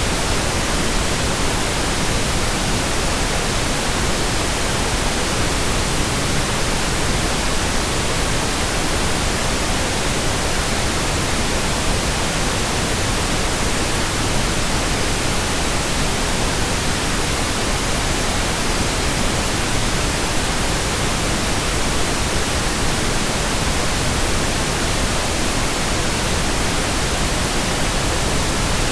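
Steady, even white noise hiss spread across the whole range from low to high, with no changes.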